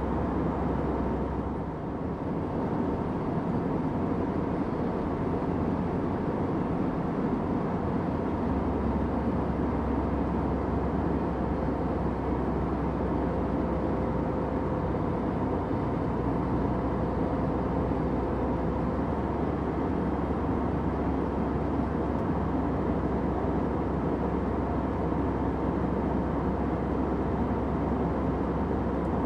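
Steady airliner cabin noise: an even rush of engine and airflow with a faint hum, dipping slightly for a moment about two seconds in.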